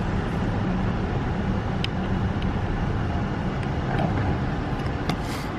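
A car engine running steadily with road noise, a low even hum, with a couple of light clicks.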